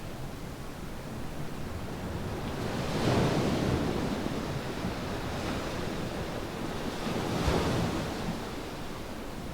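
Surf washing onto a sandy beach in steady noise, with two waves swelling and breaking, about three seconds in and again near the end.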